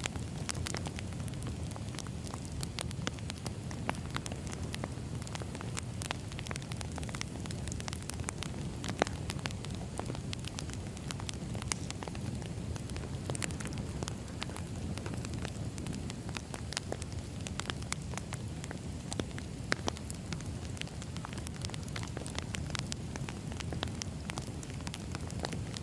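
Firewood burning: a steady low rumble of flames with irregular crackles and pops from the wood, one sharper pop about nine seconds in.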